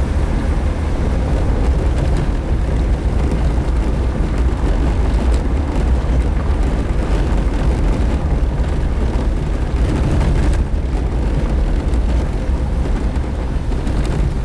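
Suzuki Jimny driving on a dirt road: a steady, loud low rumble of engine and road noise, with a few faint clicks.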